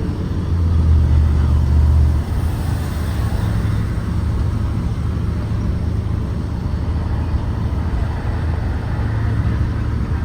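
2023 Blue Bird Vision propane school bus engine running. It is louder for the first couple of seconds, then settles to a steady low hum.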